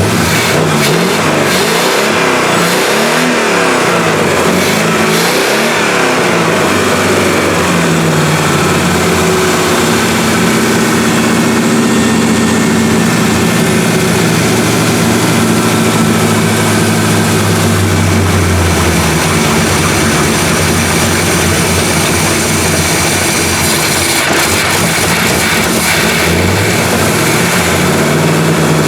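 1979 Chevy K20 pickup's engine running through its exhaust: blipped up and down several times in the first few seconds, then held at a steady fast idle, dropping off about two-thirds of the way through and picking up again near the end.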